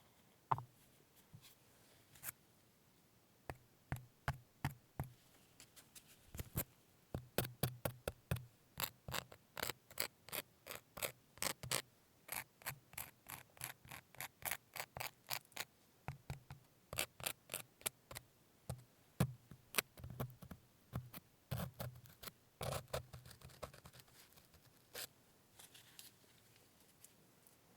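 A long run of sharp, close clicks or snips, often several a second, broken by short pauses, some with a low knock beneath them.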